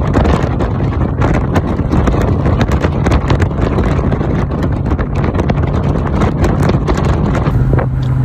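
BMW Z3 roadster driving at a steady cruise uphill: a constant engine hum under road noise, with wind buffeting the microphone.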